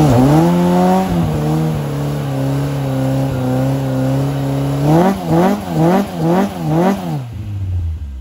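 Ford Escort RS2000 engine held at high revs during a burnout, the rear tyre spinning. About five seconds in it is blipped hard about five times, two a second, then drops away near the end.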